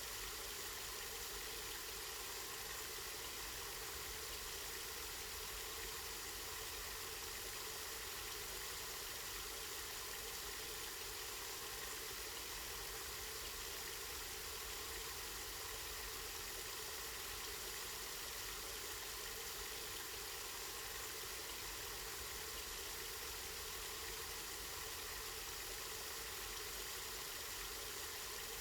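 Water from a spring running steadily, an even hiss of flowing and splashing water, with a low steady rumble underneath.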